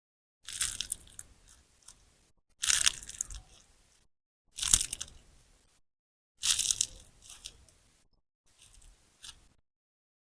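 Sponge slime, a large sponge soaked with clear slime, squeezed by hand, giving crackling, popping squelches in five separate squeezes about two seconds apart; the last is softer.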